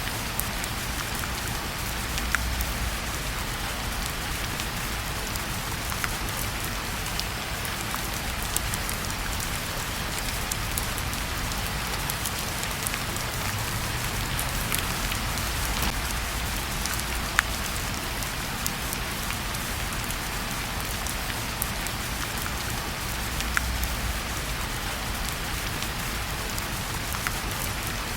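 Steady rain falling on a surface, an even hiss with occasional sharp ticks, loudest around 17 seconds in.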